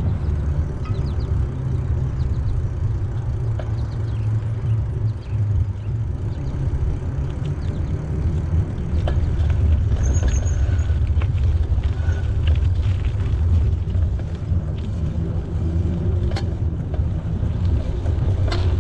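A bicycle being ridden, heard as a steady low rumble of wind on the microphone and tyres on the path, with a few sharp clicks near the end.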